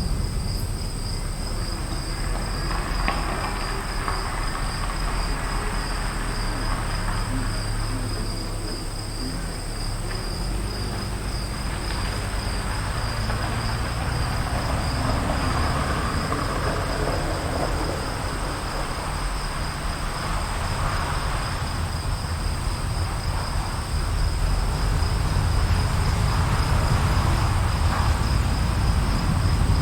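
Afternoon storm ambience: insects chirr steadily in two high, unbroken tones over a low, continuous rumble of distant thunder that swells near the end.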